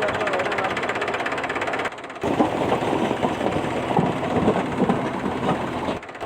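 Tractor engine running with a fast, even chugging. It drops out briefly about two seconds in, comes back rougher with irregular loud knocks, and drops out again just before the end.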